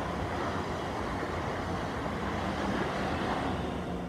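South Western Railway electric multiple-unit passenger train passing close by: a steady rumble of wheels on rail with a low steady hum, starting to fade near the end. The driver does not sound the horn.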